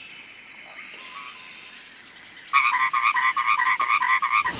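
Frog croaking in a fast run of short pitched pulses, about five or six a second, starting about two and a half seconds in.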